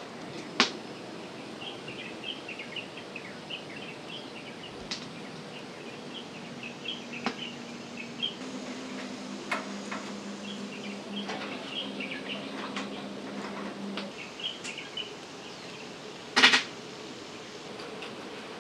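Small birds chirping in repeated runs of short high twitters over outdoor background noise, with a few sharp clicks, the loudest near the end, and a low steady hum through the middle.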